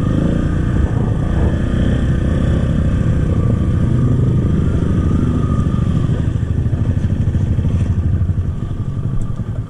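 Kawasaki KLX trail bike's single-cylinder four-stroke engine with stock exhaust running steadily under throttle, easing off near the end.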